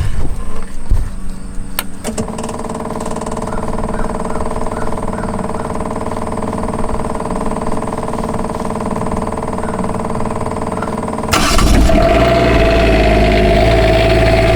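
Onan 7500 diesel RV generator being switched on and running: a few clicks, then a steady engine hum sets in about two seconds in and turns much louder and fuller about eleven seconds in.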